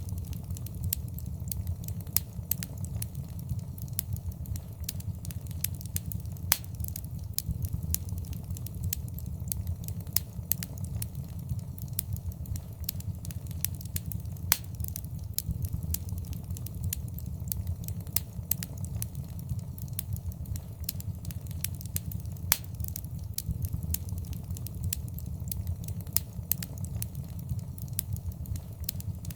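Fireplace fire crackling: a steady low rumble of the flames under frequent, irregular sharp pops and snaps.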